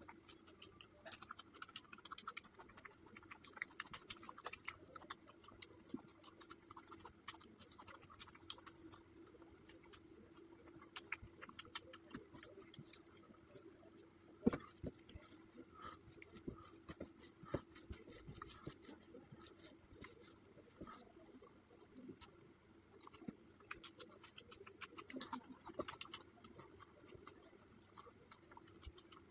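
Close-up eating sounds: chewing and mouth clicks and smacks in a steady run of small crackles, with a few louder clicks.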